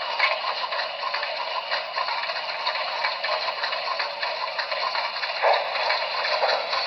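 HO scale Broadway Limited Imports four-truck Shay model locomotive running, a steady dense rapid clatter that is thin, with almost no low end.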